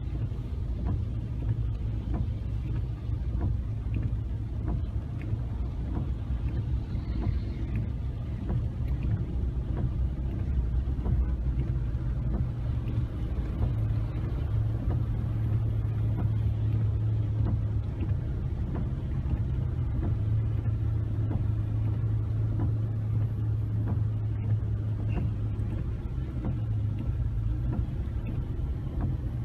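Steady low rumble of rushing floodwater, heavy in the bass, with no distinct splashes or knocks standing out.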